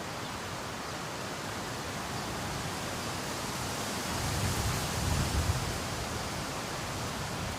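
Steady rushing noise of storm water. About four seconds in, a louder low rumble swells, then fades again within a couple of seconds.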